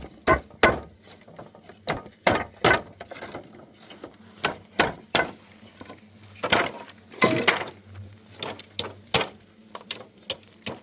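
A run of irregular sharp knocks and clacks of hard objects striking one another, some ringing briefly, about twenty in all with uneven gaps.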